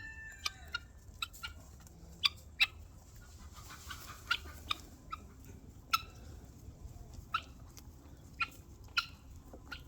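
Rabbit biting off and chewing fresh grass close to the microphone: short crisp snips and crunches at irregular intervals, about one or two a second.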